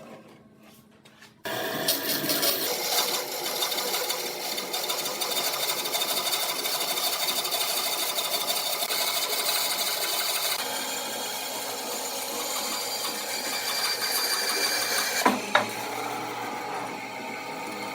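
A power tool working wood, starting abruptly about a second and a half in and running steadily with a dense, hissing, grinding noise, its tone shifting slightly about ten seconds in.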